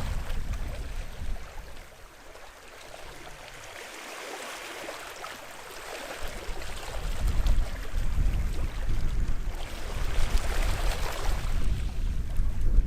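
Small sea waves washing onto the shore, swelling near the start and again about ten seconds in. Under them runs a low rumble that fades for a few seconds in the middle and then returns.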